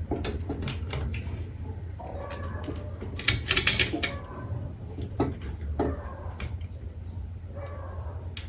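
Workshop handling sounds: a series of sharp clicks and knocks, with a short harsh scraping burst a little after three seconds in, over a steady low hum.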